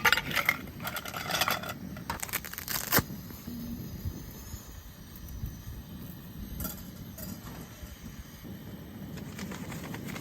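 Clinks and knocks of cups and camp cookware being handled for about the first three seconds, then a low, steady outdoor background.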